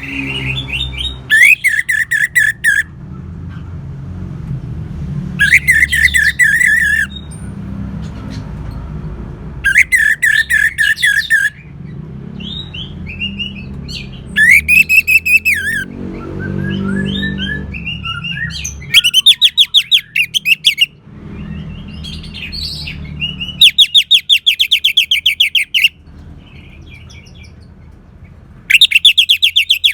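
Orange-headed thrush singing: loud phrases of rapid repeated notes, each a second or two long, coming about every four seconds, with softer chirps in between.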